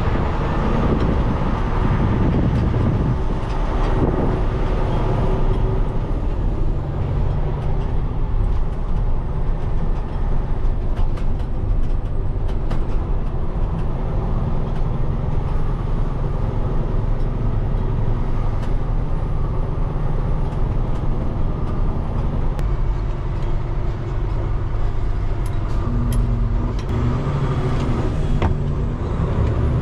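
Peterbilt 589 dump truck on the road: a steady diesel engine and road-noise rumble, with a few short clicks near the end.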